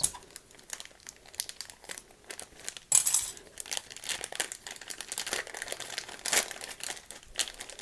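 Toy packaging handled and opened by hand: irregular crinkling and rustling, with one sharp, louder crackle about three seconds in.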